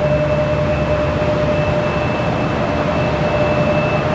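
Jet aircraft engines running at a steady pitch: a low rumble with a steady mid-pitched whine and a fainter higher whine above it.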